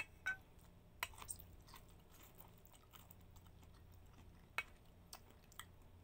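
Faint close-up chewing of okra, mouth clicks and soft crunches, several in the first two seconds, then sparser.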